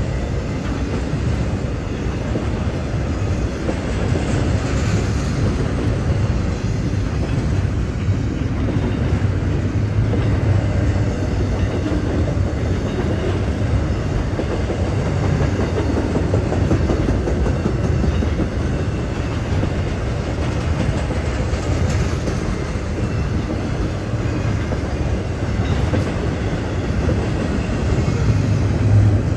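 Norfolk Southern freight train rolling by: a steady rumble of steel wheels on the rails.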